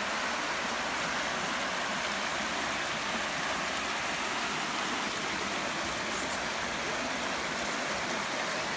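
A steady, even rushing noise with no distinct events, starting right after a cut from silence.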